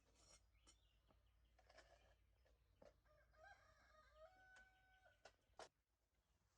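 A rooster crowing once, faintly, ending on a long held note, among light scattered taps and knocks. Two sharp clicks come near the end, the second the loudest sound.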